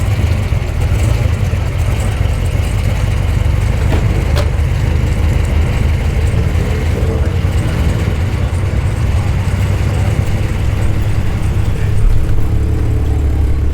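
Car engines running at low speed, a steady low exhaust note. A single sharp click about four seconds in, and a steadier engine tone joins near the end.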